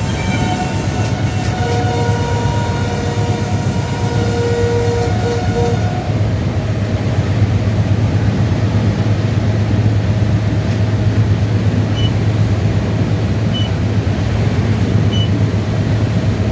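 Train running with a steady low rumble. Several steady tones sound together for about the first six seconds, then fade out. In the last few seconds a short high beep repeats about every second and a half.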